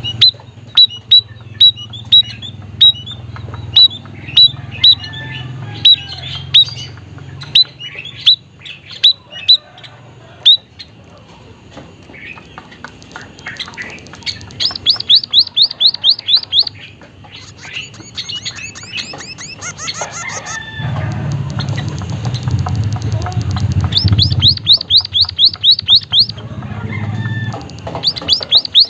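White-headed munia (emprit haji, Lonchura maja) singing: a run of sharp, evenly spaced high chirps about two a second, then, from about halfway, rapid trilled series of quick down-slurred notes, three times. A low hum sits underneath, louder near the end.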